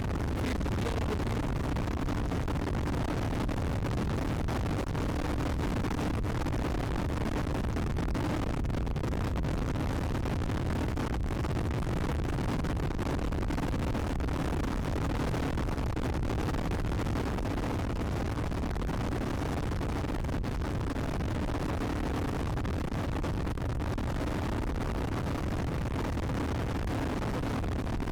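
Steady rush of wind on the microphone, with a Royal Enfield Classic 350's single-cylinder engine held flat out at near its top speed in top gear underneath.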